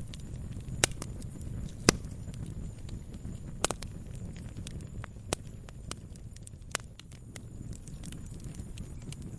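Wood campfire crackling: irregular sharp pops and snaps over a steady low rumble of burning, with the loudest pops a little under a second in and near two seconds in.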